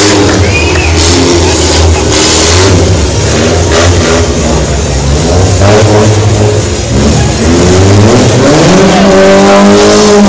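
Motocross motorcycle engine revving, rising sharply in pitch about eight and a half seconds in and then holding at high revs.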